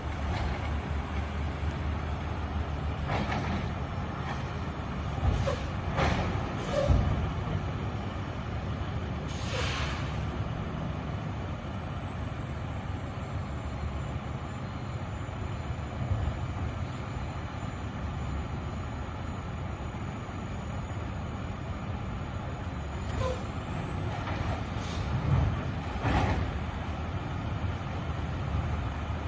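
Garbage truck engine running with a steady low rumble, broken by several short hisses of air and a few clunks.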